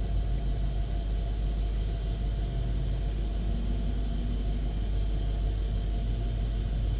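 Mercedes-Benz SL500's 5.0-litre V8 idling steadily, a constant low rumble.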